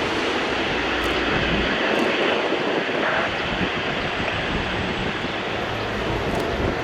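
Airbus A380-800 with Engine Alliance GP7200 turbofans landing: a steady broad rush of jet noise that eases slightly in loudness.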